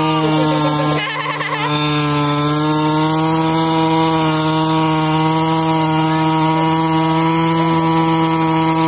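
Small engine of a child's red mini dirt bike running at a steady, high speed, held on the spot, with a brief waver about a second in.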